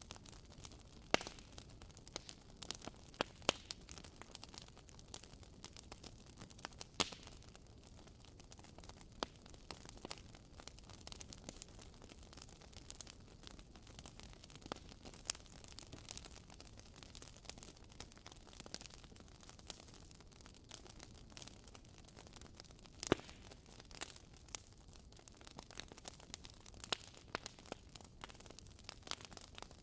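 Wood fire burning in a fireplace, crackling with irregular sharp pops and snaps over a soft steady rush of flame.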